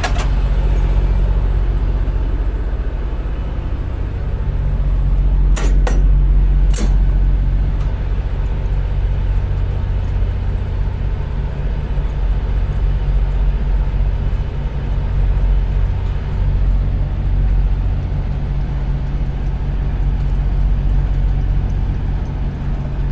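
Semi truck's diesel engine running as a steady low drone, with two sharp clicks about six and seven seconds in.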